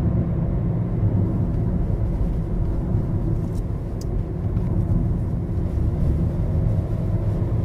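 Car driving at speed, a steady low rumble of road and engine noise heard from inside the cabin.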